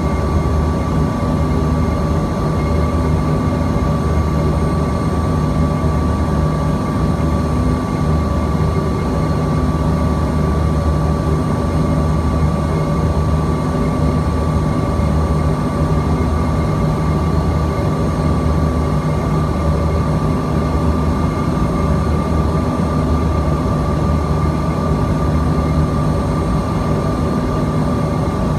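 Steady cabin noise aboard a Bombardier CRJ-200ER in flight: the drone of its rear-mounted General Electric CF34 turbofans and the airflow, with a constant whine over a low hum.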